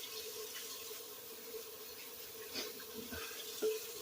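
Kitchen tap running faintly over a steady hum, with a few light knocks in the second half.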